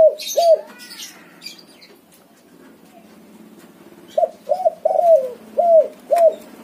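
Spotted dove cooing. Two coos end one phrase at the start, and a full five-note phrase comes about four seconds in. Each note drops in pitch, and the third is longer, with a drawn-out falling tail.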